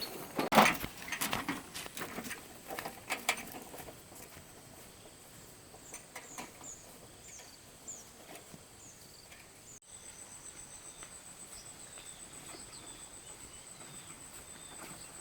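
Rural outdoor ambience. A few sharp knocks come in the first three seconds, then a series of short, falling, high chirps. After an abrupt cut about ten seconds in, a steady, finely pulsing high insect trill follows.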